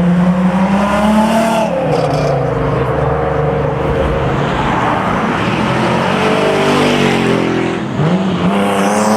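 Engine of a 2000 hp Underground Racing Lamborghini Huracán STO, a V10, revving as the car pulls away. The pitch climbs, drops about one and a half seconds in, sinks lower during the second half, and climbs again near the end.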